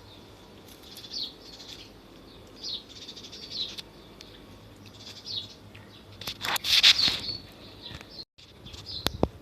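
Birds chirping outdoors, short high downward chirps repeating about once a second. About six seconds in, a loud noisy burst lasting about a second, then a sharp click near the end.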